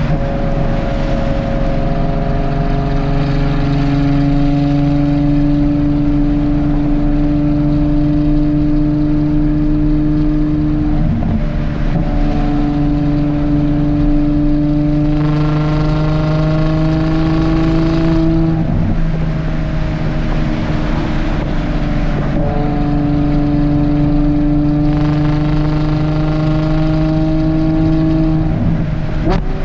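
Ferrari Purosangue's V12 with a Novitec race exhaust pulling through the gears under moderate acceleration. Its pitch climbs slowly and drops back at each of three upshifts.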